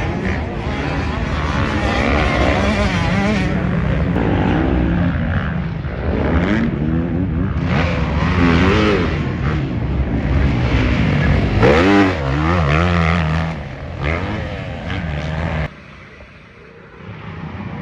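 Several off-road racing engines revving up and down on a motocross track, their pitch rising and falling as the machines accelerate and shift. The sound drops away abruptly about two seconds before the end and then builds again.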